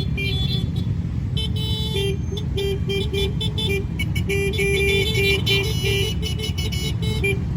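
A convoy of motorcycles and cars running through the street with loud exhaust noise, while horns sound again and again in short and longer blasts.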